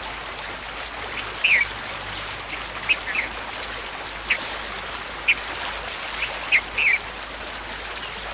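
Steady rush of flowing water with short bird chirps scattered over it, about eight in all.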